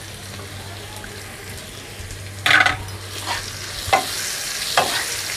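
Sliced onions and green chillies sizzling in oil in a kadai while a wooden spatula stirs them. The frying is quieter at first; then comes a loud scrape about two and a half seconds in, followed by three shorter spatula strokes, roughly one every three quarters of a second, as the sizzle grows louder.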